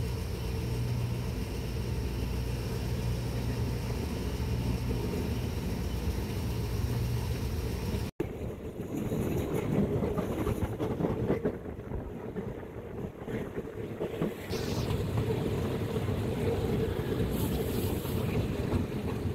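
Running noise of a moving passenger train heard from an open carriage window, with wind buffeting the microphone. For the first eight seconds there is a steady low drone. Then the sound breaks off abruptly and comes back as a rougher, gustier rumble of wind and wheels.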